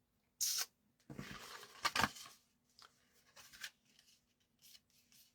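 Paper and card being handled on a craft desk: a short sharp scrape about half a second in, then about a second of rustling and scraping with a tap, followed by a few faint rustles.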